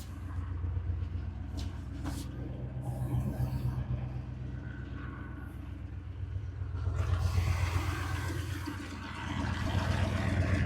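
Pickup truck engine running at low revs with a steady low rumble, growing louder twice: about seven seconds in, with a rougher noisy layer over it, and again near the end.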